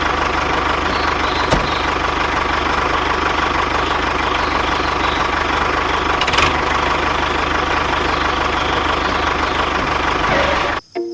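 A motor running steadily with a dense, even drone and a steady tone, with a sharp click about one and a half seconds in; it cuts off abruptly near the end.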